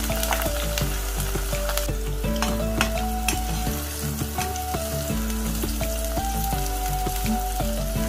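Eggplant sticks deep-frying in hot oil, a steady sizzle full of small crackles, stirred with a slotted metal spoon from about a third of the way in. Background music plays over it.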